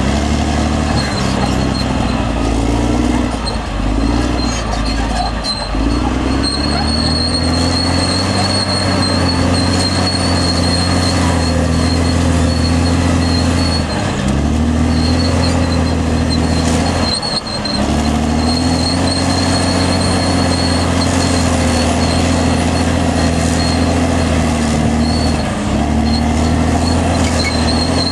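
Caterpillar D6R XL bulldozer's diesel engine running hard under load, its pitch dropping and recovering a few times as the load and gears change, with a thin high whine running along with it.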